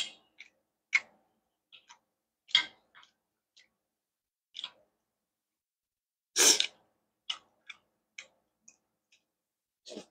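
Close-miked eating sounds from someone eating pineapple fried rice: short wet mouth clicks and chewing smacks, with a louder scrape of a wooden spoon scooping rice from a metal plate about six and a half seconds in.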